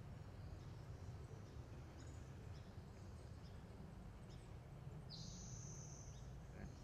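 Quiet outdoor ambience: a steady low rumble with a few faint high bird chirps, and one longer high bird call about five seconds in.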